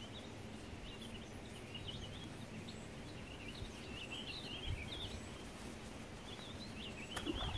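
Small birds chirping and calling over and over, in short wavering notes, above a faint steady outdoor background noise. A single sharp click comes near the end.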